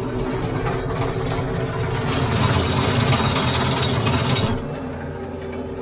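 TYM T574 compact tractor's diesel engine running steadily with its rear rotary tiller clattering as it works the soil. About four and a half seconds in the clatter cuts off sharply and only the engine keeps running, as when the tiller is lifted and the auto PTO stops it.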